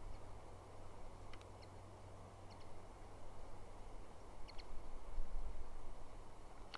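Outdoor nest-camera ambience: a steady low rumble with a few faint, short bird chirps spaced a second or two apart.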